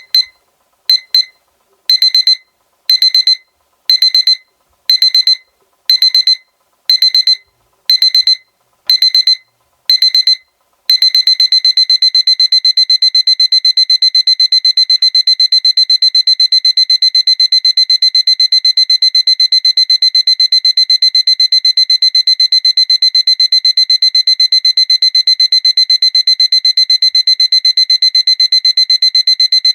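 Seiko alarm clock's electronic beeper going off, a high-pitched beep. It starts with a couple of quick double beeps, then beeps about once a second, and about a third of the way in switches to a rapid, unbroken beeping.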